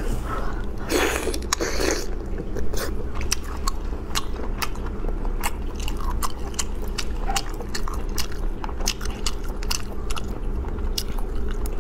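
Close-miked eating of cooked sea snails: biting and chewing with many small sharp clicks and crunches, louder about a second in, over a steady low hum.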